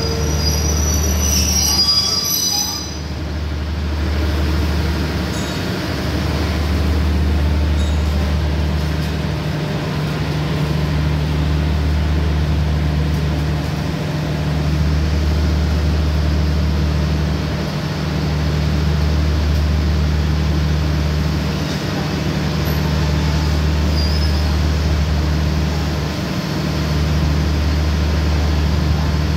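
A stationary diesel passenger train running at the platform, a deep hum that swells and dips about every four seconds over a steady lower drone. A brief high-pitched squeal is heard in the first couple of seconds.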